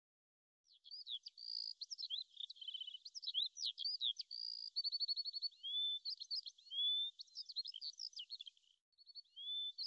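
Songbirds singing: a busy run of quick high chirps, short rising whistles and fast trills, starting about a second in, with a brief pause near the end.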